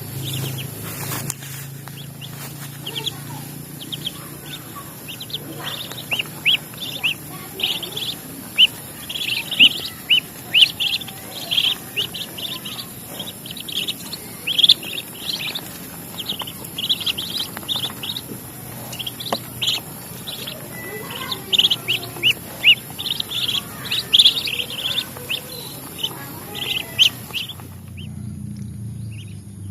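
A small bird chirping: a long string of short, high chirps in quick succession, which stop shortly before the end.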